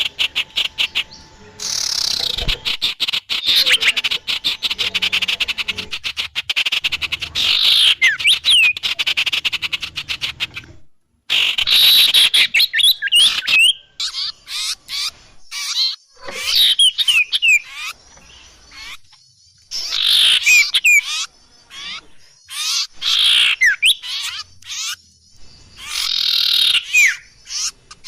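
Bird-catcher's lure recording (pikat): a dense mix of songbird calls, very rapid trills and chirps at first, then, after a brief break about eleven seconds in, separate bursts of chirps and quick whistled sweeps every second or two.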